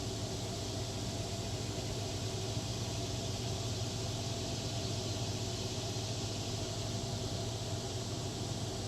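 A steady mechanical hum with an even hiss above it, unchanging throughout.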